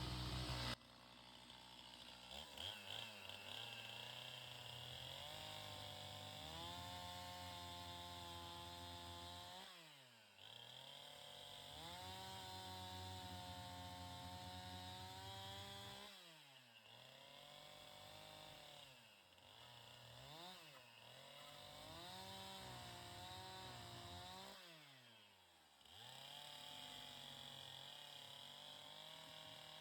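Two-stroke chainsaw, faint, running at high revs for several seconds at a time. Its pitch drops sharply about five times and climbs back each time, as it is throttled down and up again while cutting.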